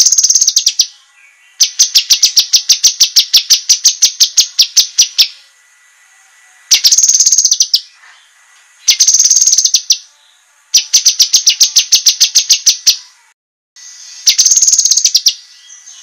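A cucak kinoi singing sharp, rapid trills of evenly repeated high notes. The trills come in about six bursts of one to four seconds each, separated by short pauses. A faint steady high tone runs underneath.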